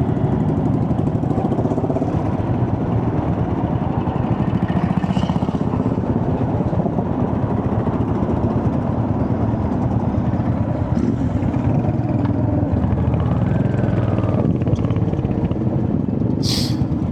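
Royal Enfield Hunter 350's single-cylinder engine running steadily with a low, even beat. A brief high chirp comes near the end.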